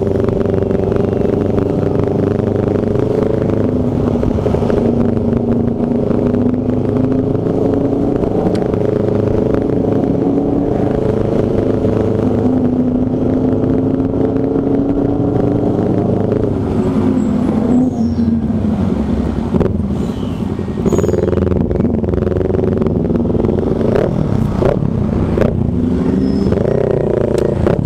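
A small underbone motorcycle engine running at a steady cruising speed, with wind rushing over the microphone. About two-thirds of the way through its pitch dips and then climbs as the bike slows and speeds up again, and it rises again a couple of times near the end.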